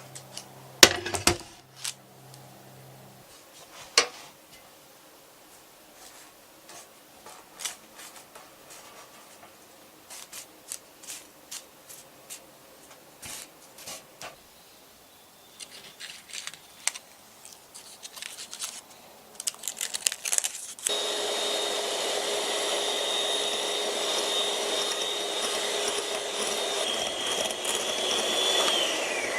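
Light clicks and taps of kitchen utensils, then a small electric motor of a kitchen appliance starts and runs steadily with a whine, its pitch falling near the end as it winds down.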